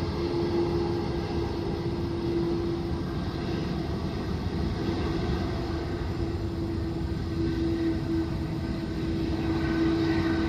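Boeing 777 airliner's jet engines on landing: a steady rush of engine noise with a held mid-pitched whine.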